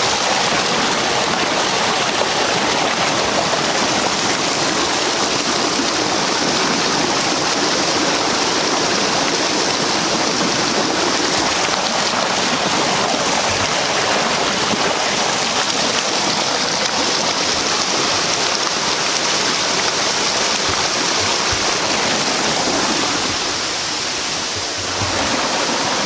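Fast river water rushing steadily, a continuous loud roar of flowing water, with a few low bumps near the end.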